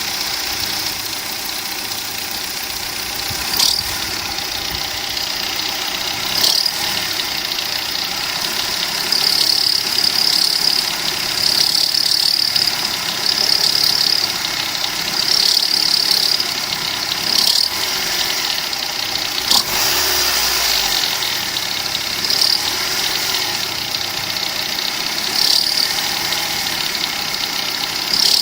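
Opel Corsa B engine running just above idle with the air-conditioning compressor engaged, and a high-pitched squeal that comes and goes every second or two, sometimes held for about a second. The squeal appears whenever the A/C compressor is switched on.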